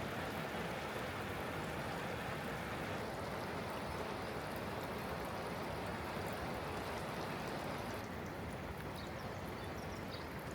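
Heavy rain falling steadily, a little softer near the end.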